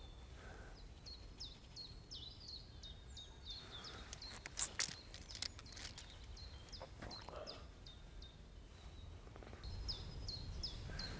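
A small songbird singing runs of short, high, falling notes, once in the first few seconds and again near the end, over quiet outdoor ambience. A few sharp clicks about five seconds in are the loudest sounds.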